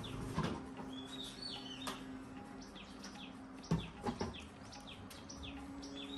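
Small birds chirping over and over, with a steady low hum underneath. A few sharp knocks cut through, the loudest a little under four seconds in and another just after.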